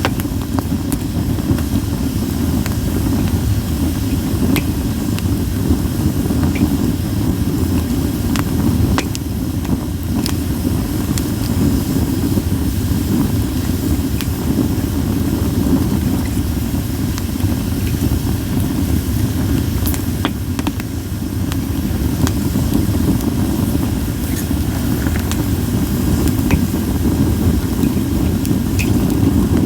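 Split sawtooth oak (kunugi) firewood burning in an open campfire: a steady low rumble with scattered sharp crackles and pops.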